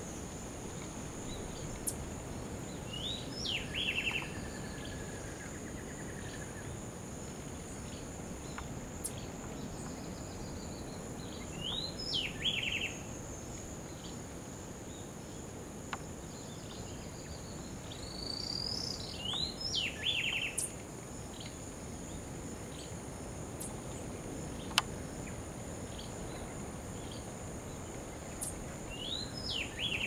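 A bird calls four times, about every eight or nine seconds: each call is a quick rising note followed by a short, fast rattle. Under it runs a steady high-pitched insect drone.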